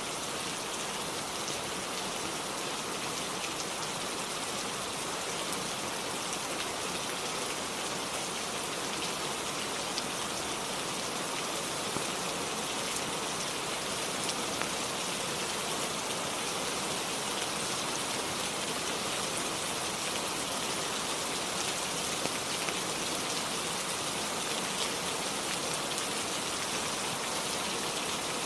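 Steady rain falling, an even hiss with scattered light drop taps.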